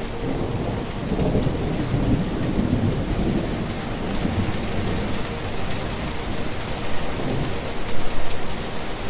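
Heavy rain pouring, with thunder rumbling low under it, loudest in a roll about eight seconds in.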